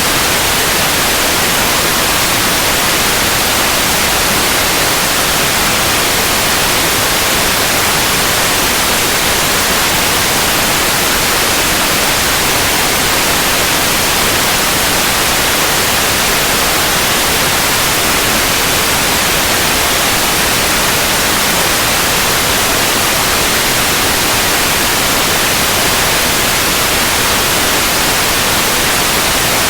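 Steady, continuous white noise: an even hiss with no changes or events.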